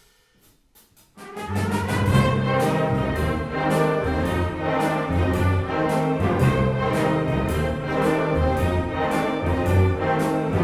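Concert wind band playing loudly, with brass in front and a steady percussion beat. It enters all together about a second in, after a near-silent pause.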